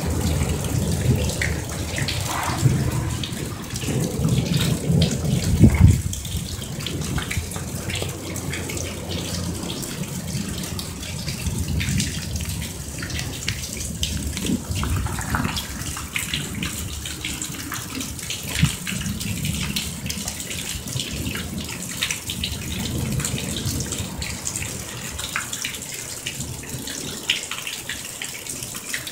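Heavy thunderstorm rain pouring down steadily, splashing on pavement and running off as a continuous rush of water. A low rumble swells over the first few seconds and peaks about six seconds in.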